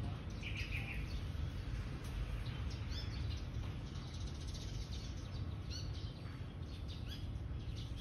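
Small birds giving short, high chirps every second or two, over a steady low background rumble.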